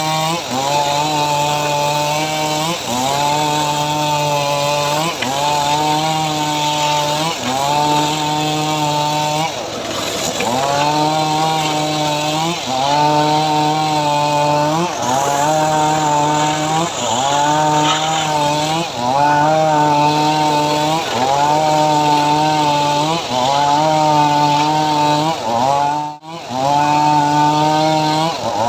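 Engine of a homemade powered saw cutting mahogany, running loud and steady with its pitch dipping and recovering in a regular cycle about every two seconds as the blade takes each pass under load. The sound cuts out briefly near the end.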